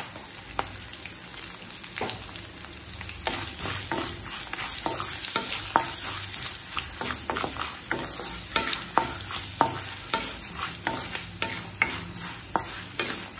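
Oil sizzling in a kadai as a wooden spatula stirs a tempering of peanuts, chillies and curry leaves, with frequent short scrapes and taps of the spatula against the pan.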